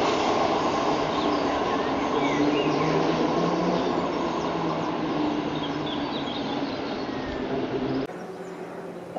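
Electric passenger train running past, its noise slowly fading as it draws away, with birds chirping above it. Near the end the sound drops abruptly to a much quieter background of birdsong.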